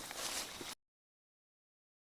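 Faint outdoor background hiss that cuts off abruptly less than a second in, leaving dead silence.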